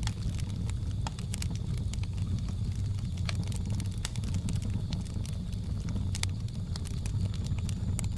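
Wood fire crackling, with irregular sharp pops and snaps over a steady low roar. A faint steady high drone sits behind it.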